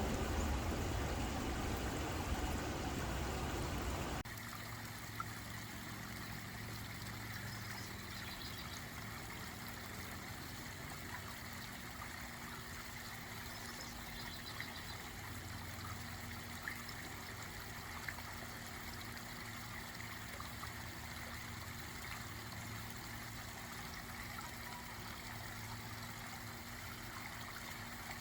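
Steady trickling and splashing of a small garden pond waterfall. A louder rushing noise covers it for about the first four seconds, then cuts off abruptly.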